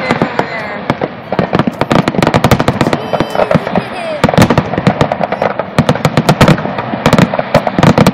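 Fireworks display: a rapid barrage of aerial shells and comets launching and bursting, many sharp bangs and crackles in quick succession.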